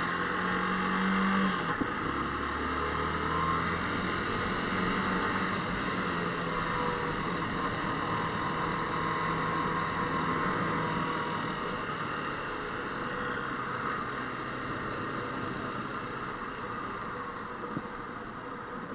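Motorcycle engine running on the move, with a steady rush of wind and road noise at the rider's microphone. The engine note shifts in the first few seconds, and the sound eases off gradually toward the end.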